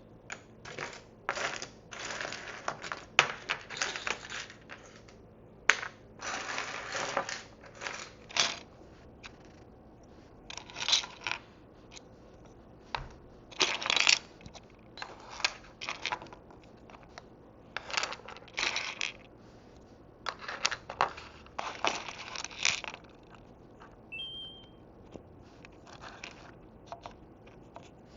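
Tiny plastic miniature dishes and food pieces clicking and clattering as they are picked up, handled and set down, with brief rustles between the taps.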